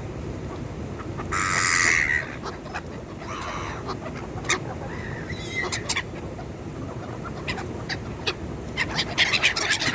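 Gulls calling harshly around food, with the loudest call about a second and a half in and a flurry of calls near the end. Scattered clicks and a steady low rumble sit underneath.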